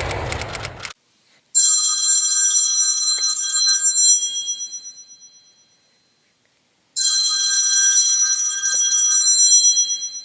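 Telephone ringing twice, each ring a few seconds long with a silent gap between. A steady rushing noise cuts off suddenly about a second in.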